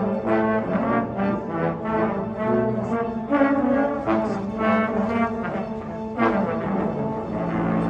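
Indoor winds ensemble of brass and woodwinds playing sustained chords, punctuated by several sharp accented hits.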